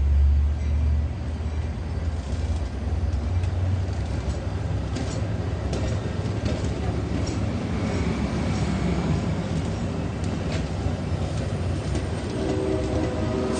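Diesel commuter train moving past, its EMD F59PHI locomotive's engine giving a low rumble, loudest at the start, over steady wheel and rail noise with a few sharp clicks. Near the end a train horn begins to sound.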